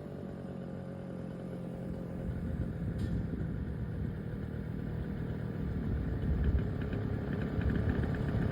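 A vehicle engine running with a steady low hum, growing gradually louder.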